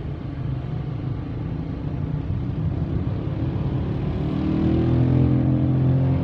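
Car engine and road noise heard from inside the cabin while driving: a low steady hum that grows louder and clearer about four seconds in.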